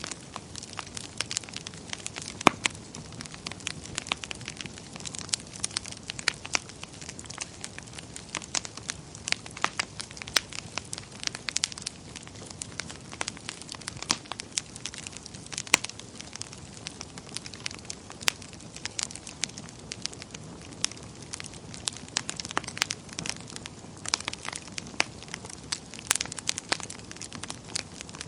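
Wood fire in a fireplace crackling, with irregular sharp pops over a steady low hiss; one louder pop about two and a half seconds in.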